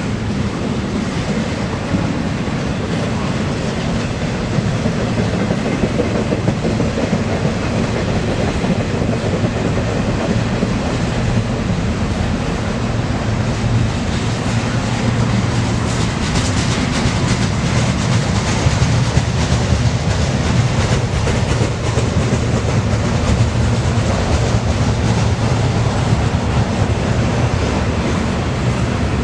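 Freight train rolling past: a steady rumble of steel wheels on rail, with rapid clacking over the rail joints that gets sharper in the middle of the passage.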